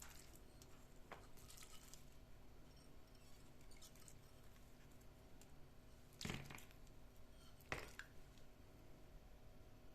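Near silence: quiet room tone with a few faint clicks and knocks of objects being handled, two of them a little louder in the second half.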